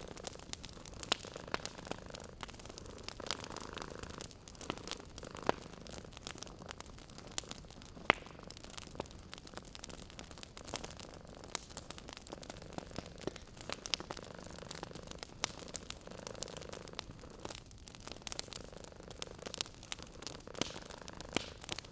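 Wood fire crackling with irregular sharp pops, one louder pop about eight seconds in. Under it a cat purrs softly in slow, repeated swells.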